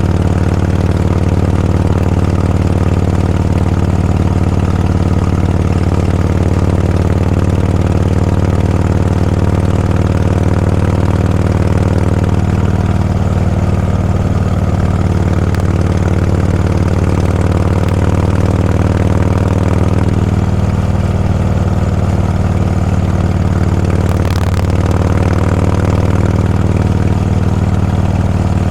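Motorcycle engine running steadily at a low, even speed, a constant low hum with its overtones. There is one brief sharp noise near the end.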